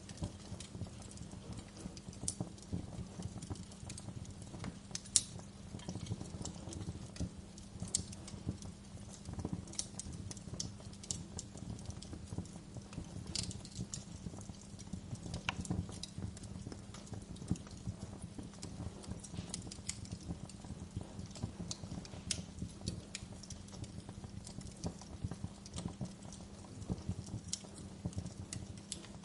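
Wood fire burning in a fireplace, crackling and popping irregularly over a steady low rumble, with one louder pop about five seconds in.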